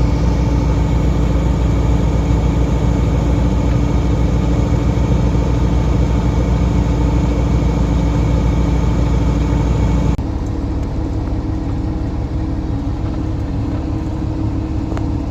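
Semi truck's diesel engine running steadily, heard from inside the cab. About ten seconds in, the sound changes abruptly to a slightly quieter, different engine note.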